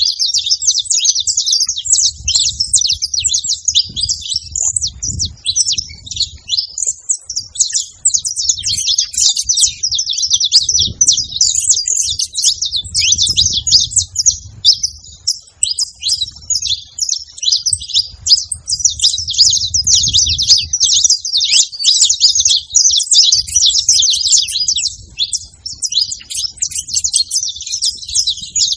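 Saffron finches singing, a dense and nearly unbroken stream of rapid, high chirps and trills from several birds at once. A low rumble comes and goes underneath.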